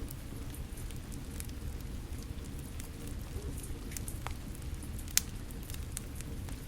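Wood fire crackling, with scattered sharp pops and one louder pop about five seconds in, over a steady low wash of falling rain.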